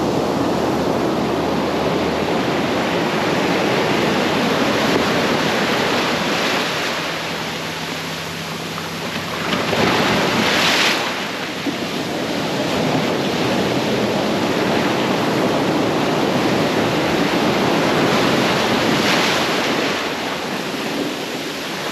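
Ocean surf breaking and washing up a beach, a steady rush with a louder wave crashing about ten seconds in. Wind buffets the microphone.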